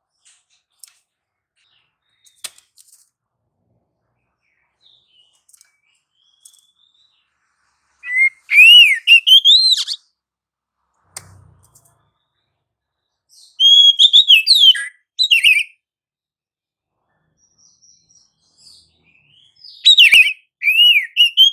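Oriental magpie-robin (kacer) singing: three loud bursts of quick whistled notes that slide up and down, coming about every five to six seconds with quiet pauses between.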